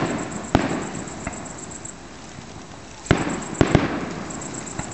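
Fireworks shells bursting in a display: a sharp bang about half a second in and a smaller one after it, then three bangs close together around three to four seconds in, each trailing off in a rolling echo.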